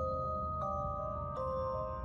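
Background music: bell-like mallet notes, glockenspiel or music-box style, struck about every three-quarters of a second over a soft low pad.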